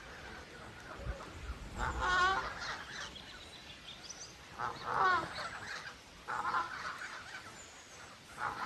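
Domestic fowl calling: a few loud, wavering calls, about two, five and six and a half seconds in.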